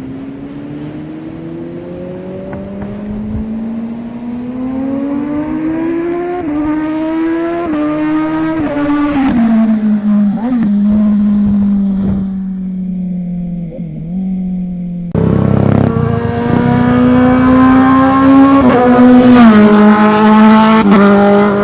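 Inline-four superbike engines under hard acceleration, the pitch climbing steadily with brief steps as quickshifter upshifts go through, then falling back. About fifteen seconds in the sound cuts abruptly to another, louder run of the same kind.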